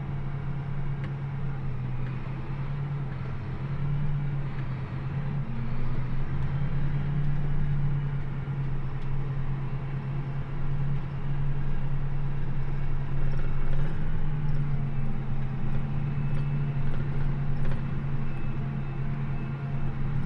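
A John Deere 8400R tractor's diesel engine running steadily under way, a deep even drone that grows a little louder about four seconds in and again from about fourteen seconds.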